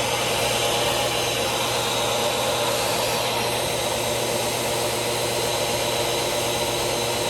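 Vacuum cleaner running steadily: an even motor drone with a high whine, at full speed after switching on.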